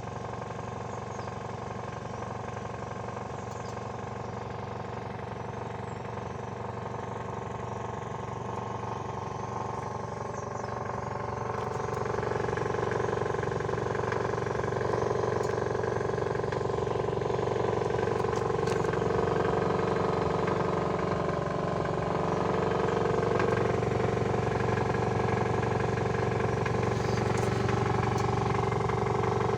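2019 Kia Ceed SW idling, with a knock in the exhaust silencer that the owner says is heard only at idle and goes away as revs rise. It gets louder about twelve seconds in.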